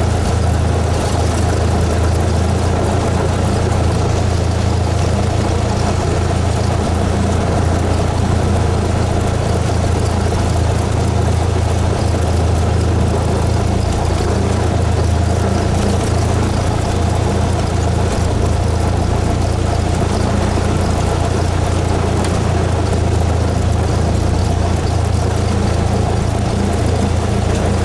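Cessna 172S's four-cylinder Lycoming IO-360 engine and propeller running with a steady, even drone.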